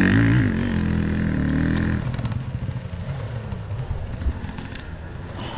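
Enduro dirt bike engine revving hard and unevenly close by. After about two seconds it drops off to a lower, uneven rumble with a few knocks.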